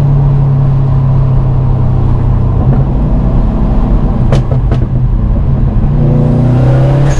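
Subaru WRX STI's turbocharged flat-four engine running at a steady pitch, heard from inside the cabin along with road noise. Two short sharp clicks come a little past the middle.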